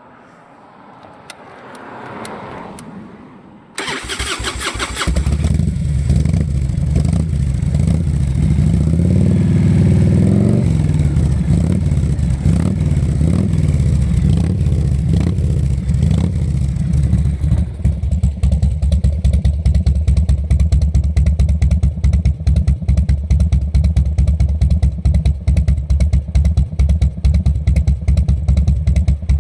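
Harley-Davidson Evolution V-twin of a 1995 Dyna, breathing through a 5-inch SuperTrapp muffler, started up: cranking begins suddenly about four seconds in and the engine catches a second later. It runs at a fast idle that rises and falls around ten seconds in, then settles into a slow, uneven, loping three-beat idle.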